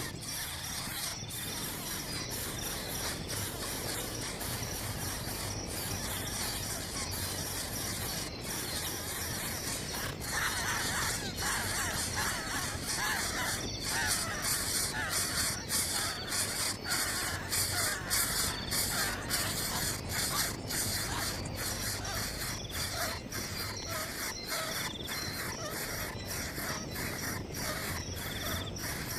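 Harsh, chattering bird calls, a dense run of short calls that is busiest in the middle.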